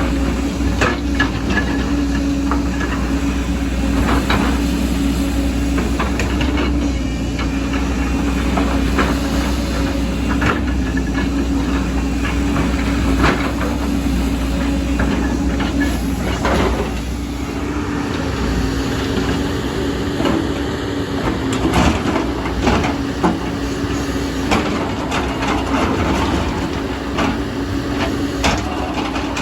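Excavator's diesel engine running steadily as it works, with repeated clanks and knocks of the bucket and arm against soil and stone.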